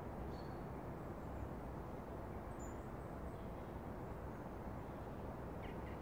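Outdoor garden ambience: a steady low background noise with a few faint, brief bird chirps scattered through it.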